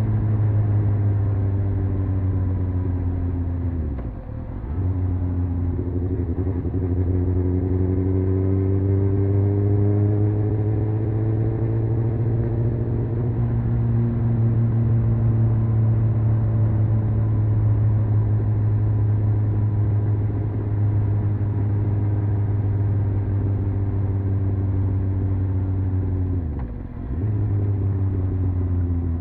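Honda CBR600F's inline-four engine heard onboard while riding, over a steady deep rumble. The engine note falls, then climbs for several seconds and slowly sinks again, breaking off briefly about four seconds in and again near the end.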